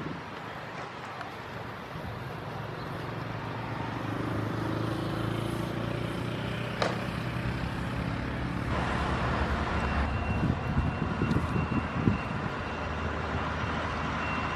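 Airliner's jet engines running on the ground: a steady hum with a whine slowly rising in pitch from about four seconds in, growing louder about halfway through as a thin high tone joins.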